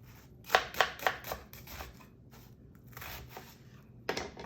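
Kitchen knife slicing through an onion onto a cutting board: a quick run of four strokes about a second in, then fainter cuts and a soft scrape, and one more stroke near the end.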